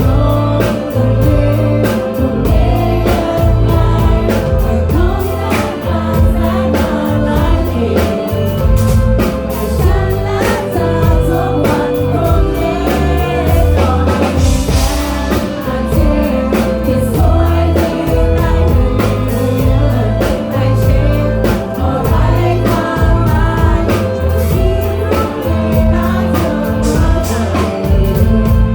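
Live band playing a song with singing over a steady drum beat and heavy bass.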